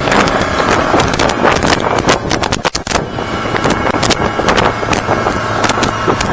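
Yamaha F200 outboard running with the boat under way at speed, mixed with heavy wind buffeting on the microphone and frequent short thumps and knocks.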